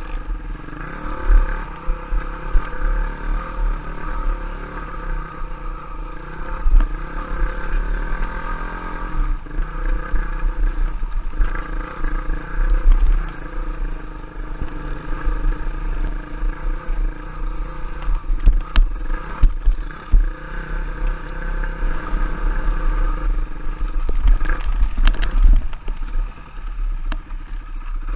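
Off-road trail bike engine running as the bike is ridden, the throttle varying, with frequent knocks and rattles from the bike over rough ground.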